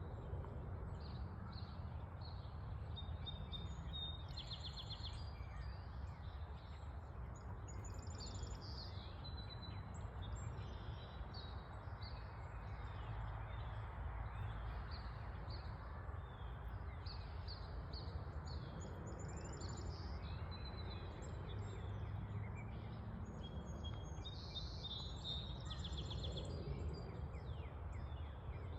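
Wild songbirds singing, with many short chirping phrases repeating throughout, over a steady low background rumble.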